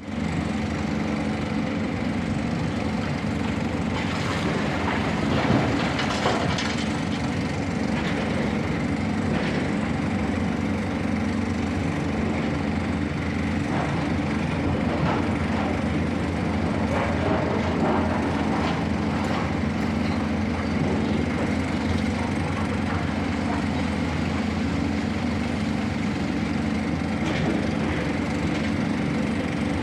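Heavy diesel engine running steadily, with scattered knocks and clatter over it.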